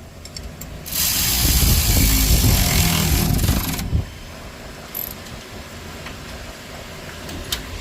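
Cordless power tool running in one burst of about three seconds, its battery running low.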